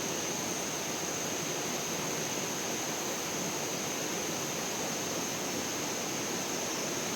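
Steady rushing of flowing water, as from a stream, with a thin steady high-pitched whine running over it.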